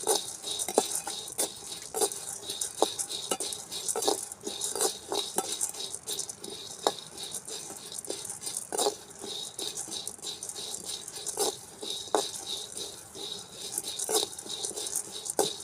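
A metal spoon stirring and scraping ingredients dry-roasting in a pan, with a steady run of irregular clinks and rattles against the metal.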